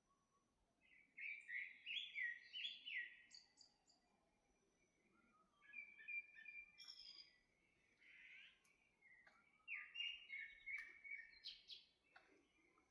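Small songbirds singing and chirping, faint and distant, in several short bursts of quick high notes with pauses between them.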